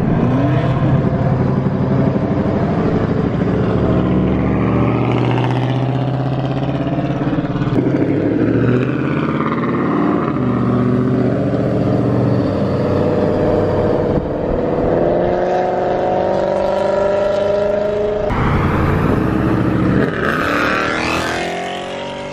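V8 car engine accelerating hard several times, its pitch climbing and dropping back between runs as it shifts and lifts.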